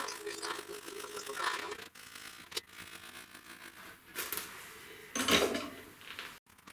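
Workbench handling noises: irregular rustling and scraping, a sharp click about two and a half seconds in, and a louder rasping scrape about five seconds in.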